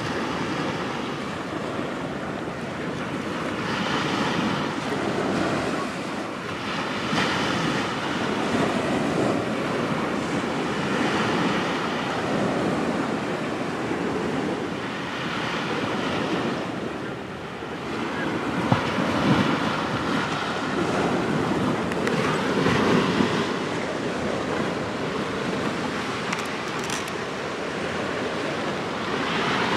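Waves washing onto the shore in surges every few seconds, with wind blowing on the microphone.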